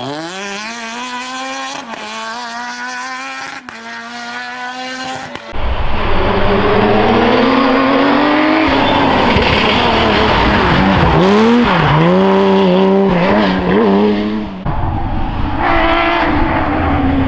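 Porsche rally cars at full attack. First an engine pulling hard through the gears, its note rising in three steps with quick shifts. Then, about five seconds in, a much louder run with heavy rumble and road noise, the engine note repeatedly dropping and climbing again as the car lifts, brakes and accelerates between corners.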